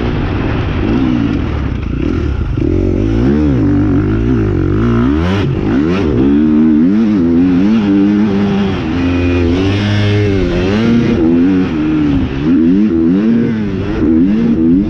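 Motocross bike engine revving up and down repeatedly as it is ridden around the track, the pitch climbing and dropping with throttle and gear changes. Two sharp knocks come about five and six seconds in.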